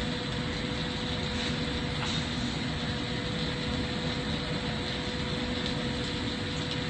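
Steady roar of a lampworking torch flame and the shop's ventilation running, with a constant hum underneath.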